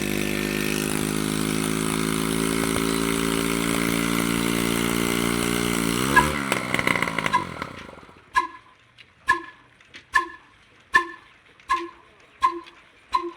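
Old diesel engine running steadily, then slowing with a falling pitch and stopping about six to eight seconds in. After it stops, a sharp ringing tick repeats roughly once a second, coming a little quicker toward the end.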